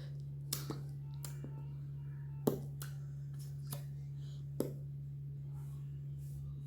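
Scattered sharp clicks and taps, the loudest about two and a half seconds in, over a steady low hum.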